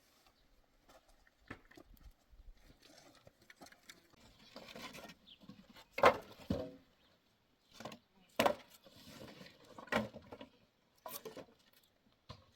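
Irregular knocks and scraping of objects being handled, with louder knocks about six, eight and a half and ten seconds in.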